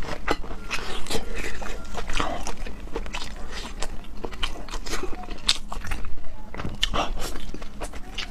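Close-miked mouth sounds of a person biting and chewing food: an irregular run of short smacks and clicks.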